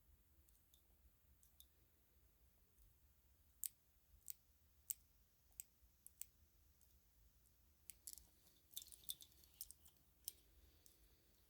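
Faint, sharp plastic clicks and taps from string lights being handled: single clicks spaced about half a second apart, then a quicker cluster of clicks near the end.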